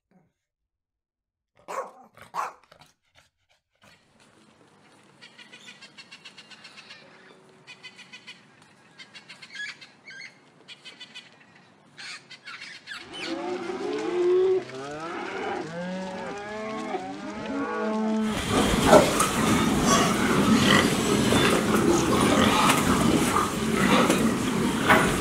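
Two short dog barks, then the chattering calls of a rainbow lorikeet, faint at first and growing louder. About three quarters of the way through, a loud, dense din of pigs in a barn takes over.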